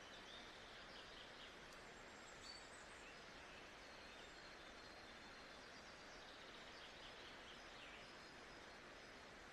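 Faint nature-sound ambience: a steady, soft hiss with scattered faint bird chirps.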